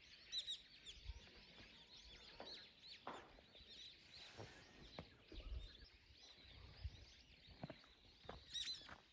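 Several small birds chirping faintly in snow-laden persimmon trees, short quick calls overlapping, busiest just after the start and again near the end. A few soft low thumps in between.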